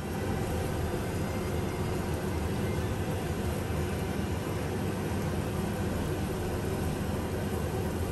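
Ginger slices sizzling steadily in hot oil in a stainless steel wok while being stirred, over a steady low rumble.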